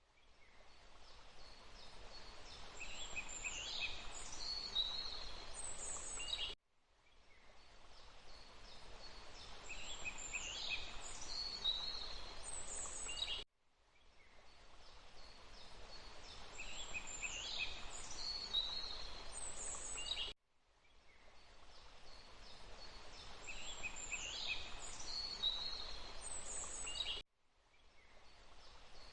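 Forest ambience of a steady rushing water noise with high-pitched bird chirps. It is a clip of about seven seconds looped: every seven seconds or so the sound cuts out abruptly, fades back in, and the same group of chirps returns in the second half of each cycle.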